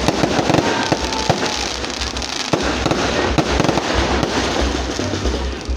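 Fireworks going off in a dense, continuous run of rapid crackling pops and bangs.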